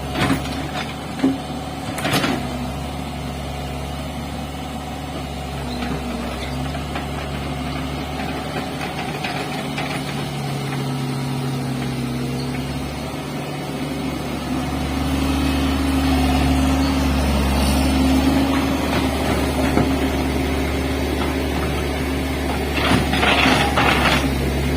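Hitachi hydraulic excavator's diesel engine running steadily, growing louder about two-thirds of the way through as it works harder. A few sharp knocks sound in the first couple of seconds, and a clatter near the end.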